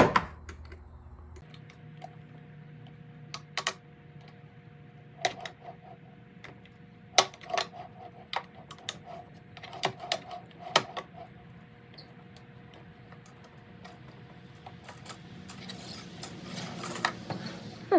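Irregular light clicks and taps of small engine parts being handled and turned over, a dozen or so scattered through, over a faint steady hum.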